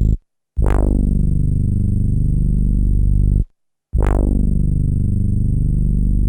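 Synthesizer bass sample played back on an SP1200 12-bit sampler: two alike notes, each about three seconds long, with a bright attack that falls away quickly into a deep sustained tone. They are separated by a brief gap.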